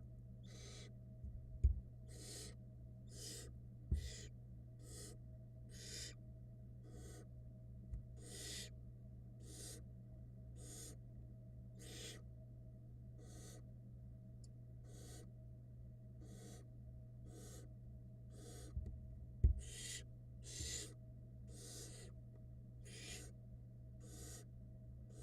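Barn owl nestlings giving their hissing begging calls, one after another about one and a half times a second, over a steady low hum. A few dull thumps stand out, the loudest about two seconds in, again at four seconds, and shortly before the end.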